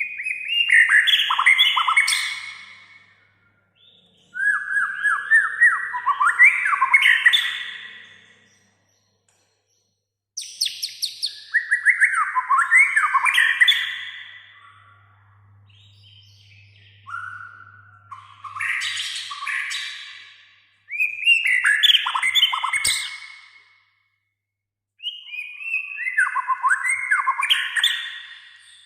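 White-rumped shama (murai batu) singing in about six loud phrases of rapid, varied notes and trills, each a few seconds long, separated by short silences.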